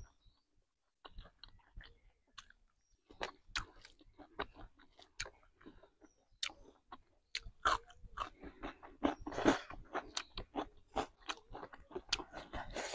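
Close-miked chewing of spicy masala chicken and rice eaten by hand: a steady run of wet mouth clicks and crunches, sparse at first and growing denser about halfway through.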